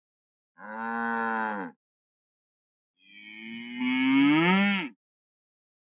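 Texas Longhorn cattle mooing twice: a short, steady moo, then a longer, louder one that rises in pitch and falls away at the end.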